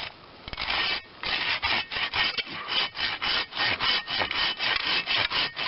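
Fiskars handsaw cutting through a ponderosa pine limb, with quick, even back-and-forth strokes about three a second that start about a second in.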